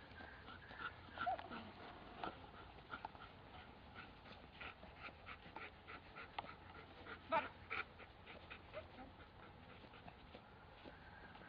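A dog whimpering, in short high whines and squeaks, the loudest a little past the middle.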